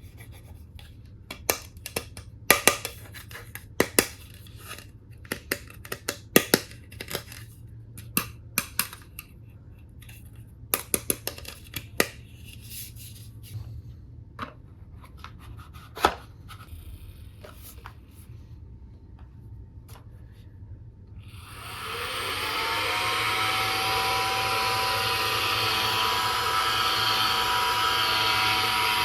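Plastic toy tool pieces being handled, giving scattered sharp clicks and taps. About 22 seconds in, a battery-powered toy tool's small electric motor starts, rising briefly in pitch as it spins up, then runs steadily with a buzzing whine.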